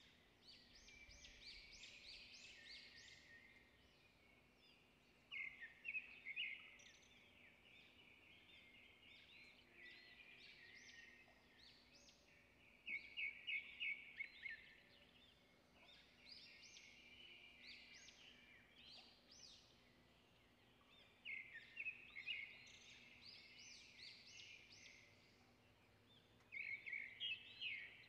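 A small bird calling in rapid runs of high chirping notes, a loud burst every five to eight seconds with softer chirps in between, over a faint steady low hum.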